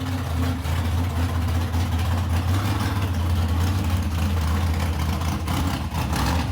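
A vehicle engine idling steadily, with a low, even rumble.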